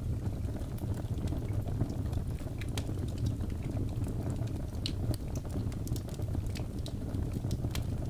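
Wood fire burning in a fireplace: a steady low roar of flames with frequent sharp, irregular crackles and pops from the burning logs.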